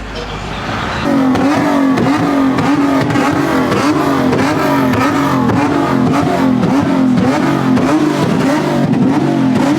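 Car engine held at high revs on a two-step launch limiter, starting about a second in: one steady held pitch with rapid crackling pops. The revs drop away near the end.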